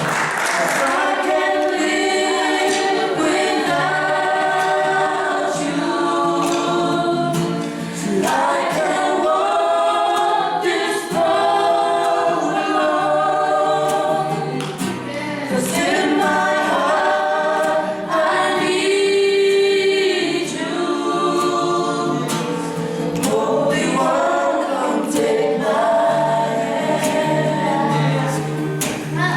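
A group of voices singing a Christian worship song together in harmony.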